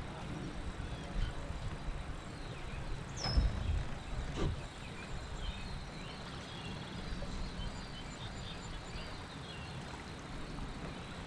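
Low rumble of wind and moving water on a kayak-mounted action camera's microphone, with a few soft knocks on the kayak about one, three and four and a half seconds in.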